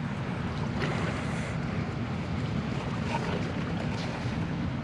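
Steady wind buffeting the microphone, a low fluctuating rumble, with a few faint clicks.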